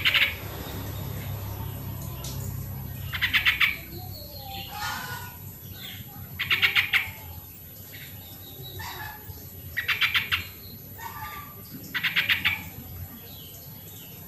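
Yellow-vented bulbul (trucukan) singing: short, rapid bubbling phrases repeated about every three seconds, five times, with softer, lower calls in between.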